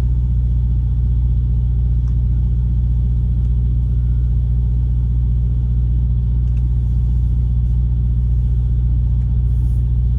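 Steady low rumble of a vehicle engine idling, heard from inside the truck's cab.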